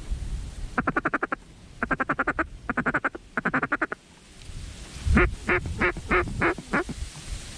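Mallard hen duck call blown by the hunter: four quick runs of rapid feeding chuckle, then a series of six loud quacks stepping down in pitch.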